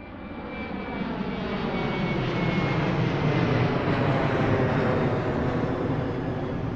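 Airplane flyover sound effect: an aircraft engine growing louder, passing overhead and fading away, its pitch falling gently as it goes by.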